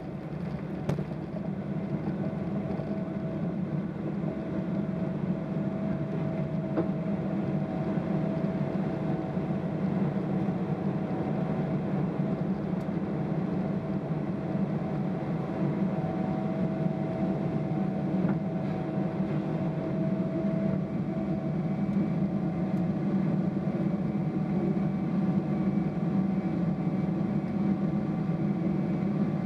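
Cabin noise of a Boeing 777-300ER's GE90-115B engines at high thrust during takeoff: a steady low rumble with a faint whine, growing slowly louder.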